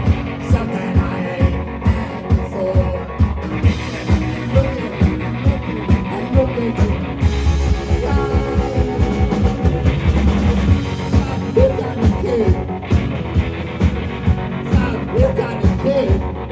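Rock band playing live, with singing over guitar and a steady drum beat of about two hits a second.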